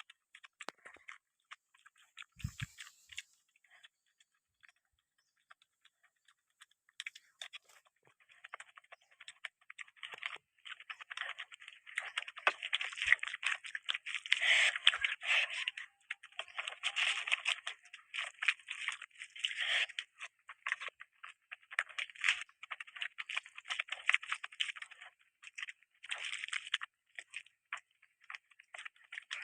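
Close-miked chewing and eating, with wet crackly mouth sounds and crunches. They are sparse for the first several seconds, then come thick and fast from about eight seconds in to near the end.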